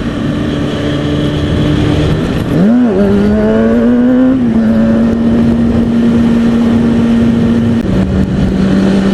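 2003 Kawasaki ZX-6R 636's inline-four engine running at steady revs under wind rush while riding. About two and a half seconds in, the note dips and then climbs to a higher pitch and holds steady, as with a gear change and acceleration.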